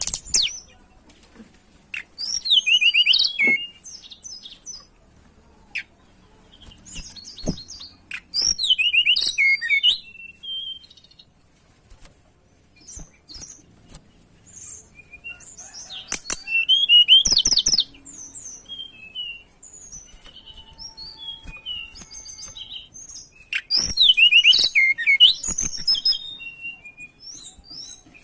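A tledekan gunung, a small Ficedula flycatcher, singing vigorously: a busy, high-pitched chirping song phrase roughly every seven to eight seconds, with short chirps and calls between the phrases. The recording is a lure song of the kind played to caged birds to set them singing.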